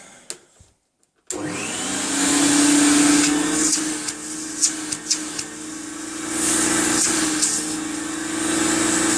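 1980 Electrolux 502 upright vacuum cleaner switched on about a second in, its motor spinning up quickly to a steady whine while running with the hose attached for suction, the rushing air swelling and easing, with a few light knocks.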